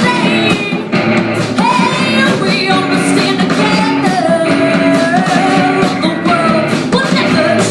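Live rock band playing with a lead singer, the voice holding long notes that slide in pitch over guitar and drums.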